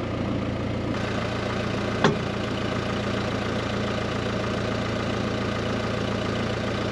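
Farm tractor engine idling steadily, with one sharp knock about two seconds in.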